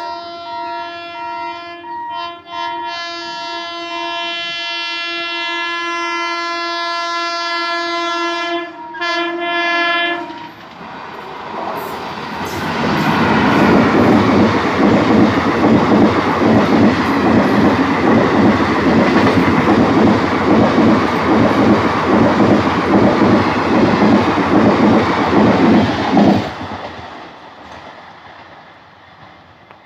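A train's horn sounds one long steady blast for about ten seconds as the locomotive approaches. Then passenger coaches pass close by with loud, rhythmic wheel clatter over the rail joints. The clatter cuts off suddenly as the last coach goes by, and the train fades into the distance.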